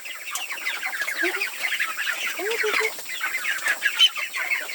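Many ducklings peeping at once in a dense, continuous high-pitched chorus, with a couple of lower calls about one and two and a half seconds in.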